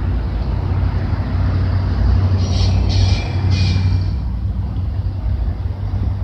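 Slow freight train of autorack cars rolling past: a steady low rumble of wheels on rail, with three short high squeals about halfway through.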